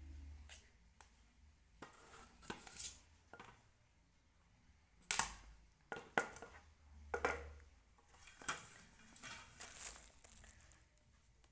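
Irregular scrapes and clinks of a spoon working against a metal can and dish, with short pauses between strokes: homemade ice cream being spooned out of the can into a container.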